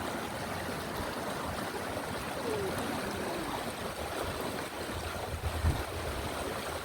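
Steady rushing outdoor noise, with a brief low rumble about five and a half seconds in.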